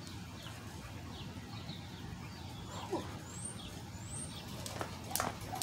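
A couple of faint, short rising bird chirps over a steady low outdoor hum. Near the end a jump rope starts slapping the pavement again in quick strikes.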